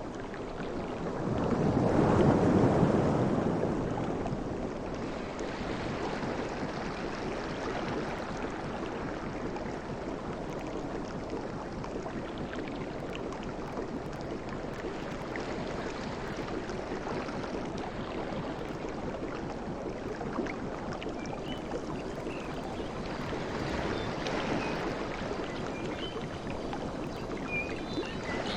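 Sea waves washing on a shore. One wave breaks loudly about two seconds in, then a steady wash of surf follows, with a gentler swell near the end.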